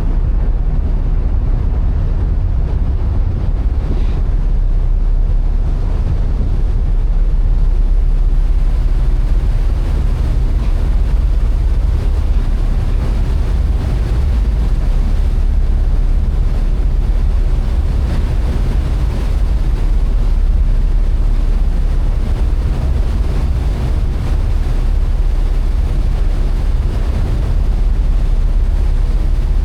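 Steady low drone of a passenger ferry's engines underway, with wind buffeting the microphone.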